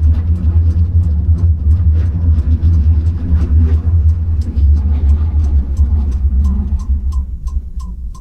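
Low, steady rumble of a tram-train running along the track, heard from inside the passenger car, easing off near the end. A faint regular ticking, about two to three a second, starts near the end.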